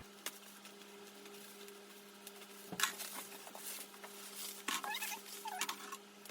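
Hands scratching and crinkling at tightly wrapped, taped parcel packaging while trying to get it open, with scattered scratches and a sharp click about three seconds in. A steady low hum runs underneath.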